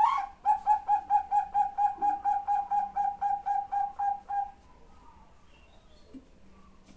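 Female zebra dove (Bangkok perkutut) calling for a male. It gives one rising note, then a quick, even run of about eighteen short coos lasting about four seconds.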